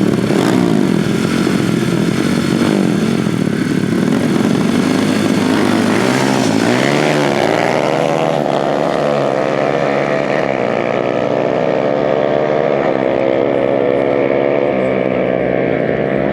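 Dirt bike engines running hard, their pitch rising and falling repeatedly from about six seconds in.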